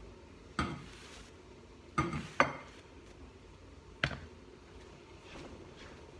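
Kitchen utensils knocking and clinking against dishes, four sharp strikes, two of them close together about two seconds in.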